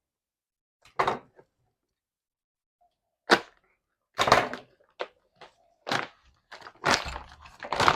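Packaging being pulled and unwrapped from around a rear sway bar: a string of short, separate rustles and scrapes about a second apart, with quiet between them.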